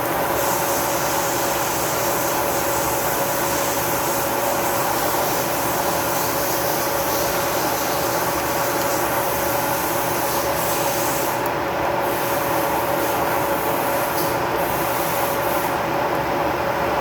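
Lathe running steadily, a constant machine hum with a steady mid-pitched tone. The higher hiss shifts briefly a few times in the second half.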